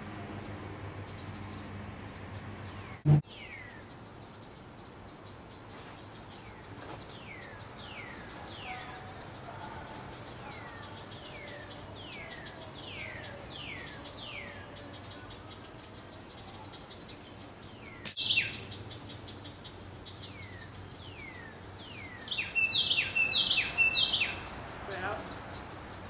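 Birds chirping: a series of short downward-sweeping chirps, over a steady pulsing insect buzz. A sharp click comes about three seconds in, and louder, harsher bird calls come in the last few seconds.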